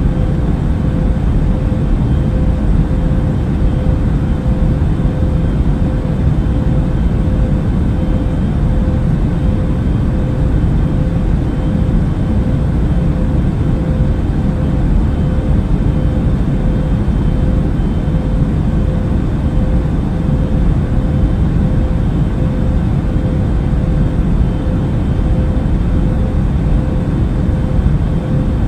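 Airliner cabin noise in flight: a steady low rush of engine and air noise with a faint constant hum, unchanging throughout.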